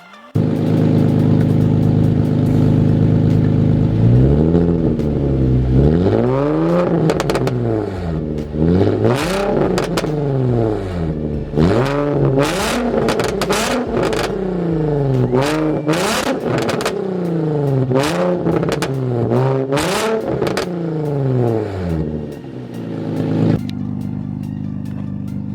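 Infiniti G35 drift car's 3.5-litre V6 running loud. It holds steady at first, then is revved up and down over and over, about once every two seconds, with sharp crackles. Near the end it drops back to a quieter steady idle.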